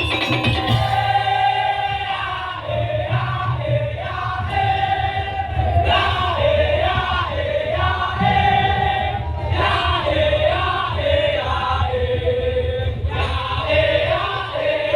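Madurese daul (tongtong) ensemble playing: a gliding, wailing melody line moves from note to note over a steady, heavy low drum beat.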